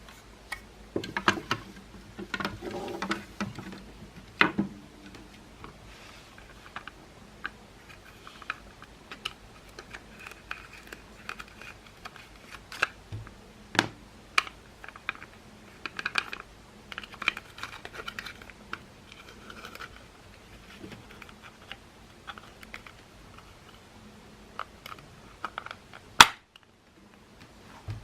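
Plastic parts of a Makita CL108FD cordless vacuum cleaner being handled during disassembly and reassembly: irregular light clicks, taps and rattles, with one sharp loud click about 26 seconds in.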